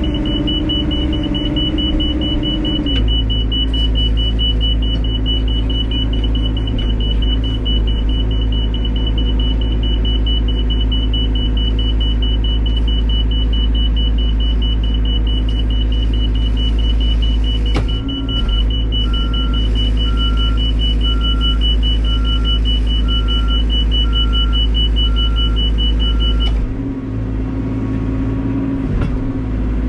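Cat backhoe loader's diesel engine running under load, with a steady high whine; the engine revs drop about three seconds in and pick up again near the end. A repeating beep sounds for several seconds in the last third.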